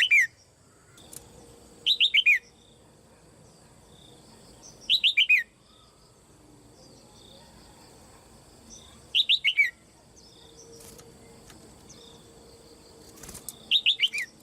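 Caged female red-whiskered bulbul calling: short bursts of three or four quick falling chirps, repeated five times a few seconds apart.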